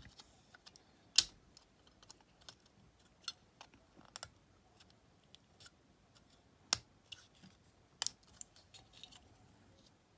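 Scattered small clicks and taps of the Walkman's plastic battery box and its contacts being handled and fitted, irregular, with three sharper clicks standing out: one about a second in and two in the later part.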